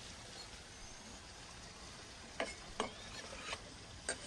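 Onions and vegetables frying in a pan with a faint steady sizzle. In the second half, a utensil clacks against the pan four or five times as the food is stirred.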